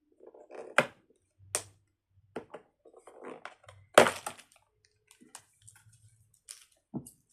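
Plastic packaging crinkling and snapping as it is worked open by hand, with several sharp cracks; the loudest comes about four seconds in.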